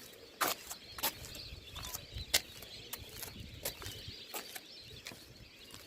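Small birds calling faintly outdoors, with short sharp ticks and chirps at irregular intervals.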